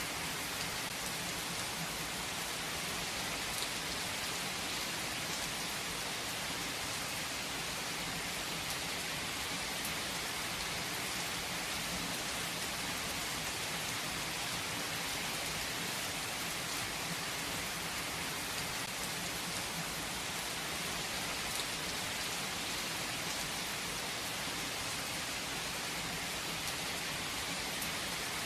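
Steady rain falling, an even hiss with faint individual drop patters.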